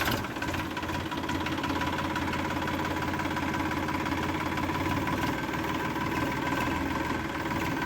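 Small motor of a DIY toy tractor running steadily, a constant mechanical whir with a fast, even ticking.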